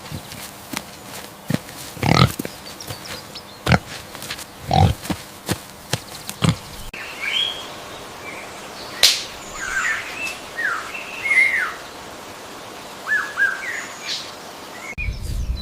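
Pig grunting in short, separate grunts with small clicks and knocks. A little before halfway this gives way to small birds chirping in short, falling calls.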